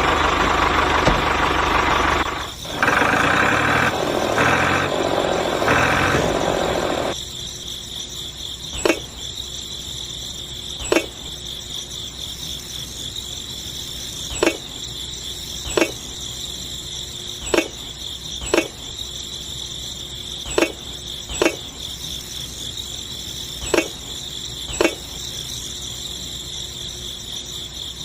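A small motor runs for the first seven seconds, then stops. Steady insect chirring carries on throughout, with a short knock every one to three seconds.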